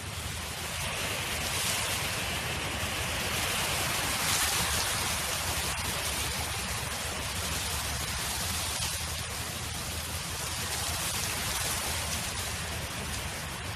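Wind blowing across an open field: a steady rushing hiss that swells about a second in, peaks a few seconds later and eases off in the second half.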